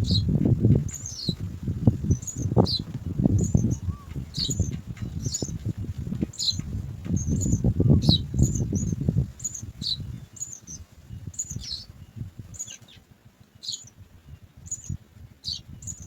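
House sparrows giving short high chirps, one or two a second throughout. Loud rustling and fluttering in the nest sounds under them for the first nine seconds or so, then dies down.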